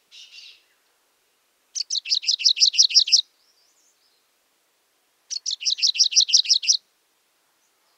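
Grey-breasted prinia (Franklin's prinia) calling: two phrases, each a rapid run of about ten sharp, high notes lasting about a second and a half, with a few seconds of silence between them.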